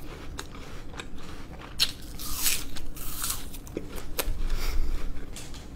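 Close-miked biting and chewing of a piece of fruit: wet mouth sounds with several sharp clicks spread through.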